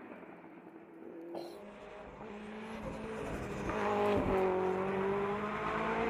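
Race car engine at high revs climbing a hill, growing louder as it approaches, with its pitch dipping and rising again through the gears.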